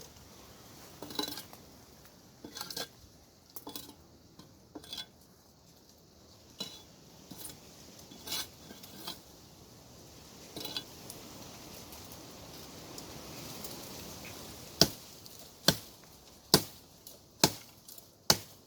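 Axe chopping hard wood: scattered lighter knocks at first, then five heavy strokes in a steady rhythm of about one a second near the end. The axe is blunt and the wood is hard.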